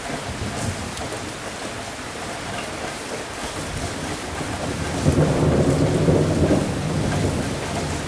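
Steady rain with a roll of thunder that swells in about five seconds in, rumbles for a second or two, then fades back under the rain.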